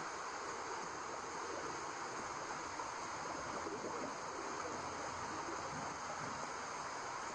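Steady white noise, an even unbroken hiss strongest in the middle range, played as a womb-like sound to lull a baby to sleep.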